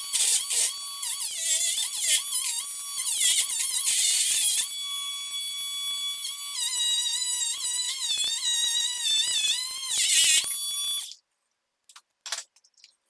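High-pitched squealing whose pitch wavers up and down, which stops abruptly about eleven seconds in; two brief squeaks follow.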